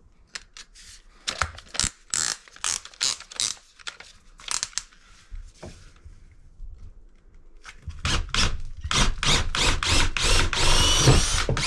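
Power drill with a long bit boring up through wood, run in short bursts at first, then running hard and loudest over the last few seconds as the hole goes through the roof.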